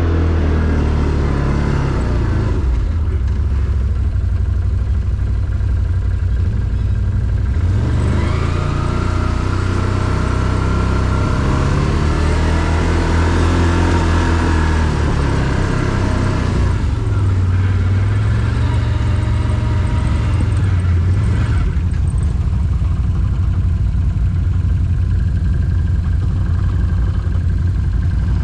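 Quad bike (ATV) engine running under way. Its pitch rises and falls repeatedly as the throttle opens and closes over rough ground.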